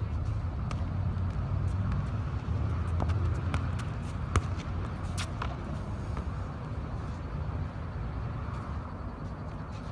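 A football being kicked and bouncing on a small court: a handful of short sharp thuds, the loudest a little over four seconds in, over a steady low rumble.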